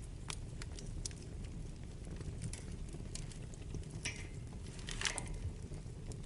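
Wood fire burning in a fireplace: a steady low rumble of flames under scattered sharp crackles and pops, with a quick flurry of crackling about four and five seconds in.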